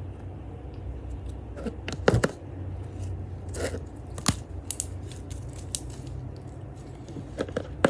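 Scattered clicks and light scrapes of a spoon against a small bowl as a slime mixture of glue, shaving gel and baking soda is handled and stirred, over a steady low hum.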